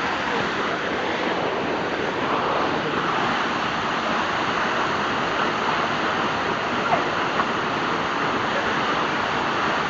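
Waterfall: a steady, even rush of falling water, with a couple of faint short blips about seven seconds in.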